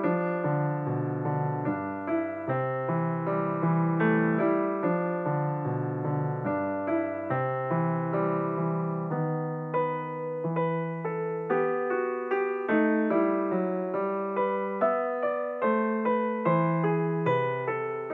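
Background piano music: single notes and chords struck one after another at an even pace, each fading after it is struck.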